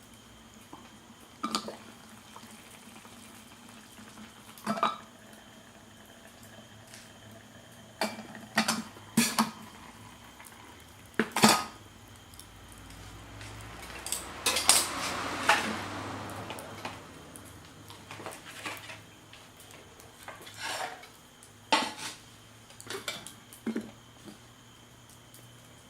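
Dishes and metal utensils clinking and knocking: about a dozen separate sharp clinks, with a longer stretch of continuous handling noise around the middle.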